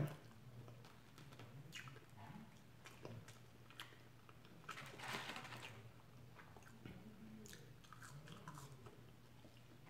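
Faint close-up chewing of food by a person eating, with scattered small wet clicks and a louder stretch of chewing about five seconds in.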